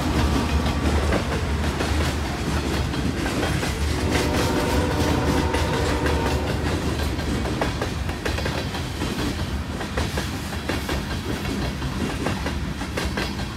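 Freight cars of a passing train (boxcars and covered hoppers) rolling by close to the track: a steady rumble with a continual clickety-clack of steel wheels over rail joints.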